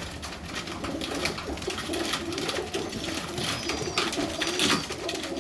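Serbian highflyer pigeons cooing in a loft, a low wavering coo that goes on throughout, with scattered sharp clicks and taps among them.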